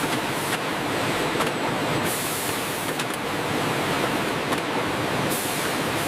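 Steady rushing noise of food-processing machinery running, with a few faint ticks. The hiss shifts in brightness about two seconds in and again near the end.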